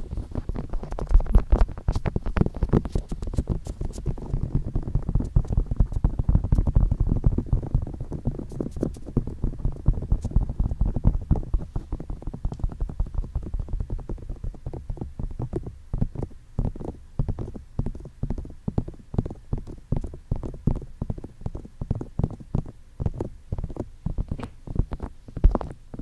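Fingers quickly tapping and touching a binaural microphone's ears, giving a dense run of soft, muffled taps with a low rumble. The taps blur together at first and become more separate past the middle.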